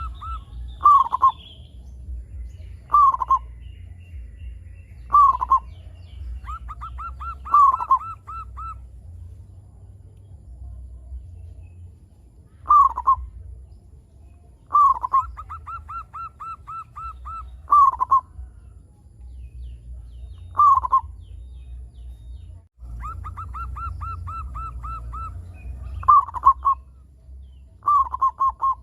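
Zebra dove (perkutut) cooing. Runs of quick, short, evenly spaced coos alternate with single loud, falling coo notes that come every two to three seconds.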